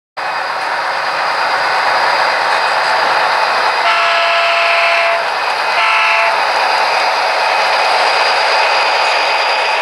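Model diesel locomotive's sound unit blowing its horn, one long blast about four seconds in and then a short one, over a steady running noise.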